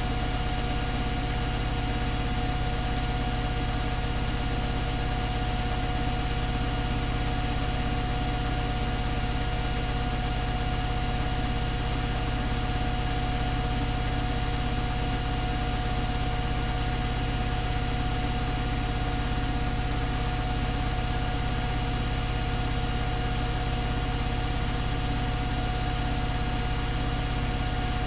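ATLANT 70C1010 front-loading washing machine running steadily: a constant hum with steady high whining tones, unbroken and without pauses.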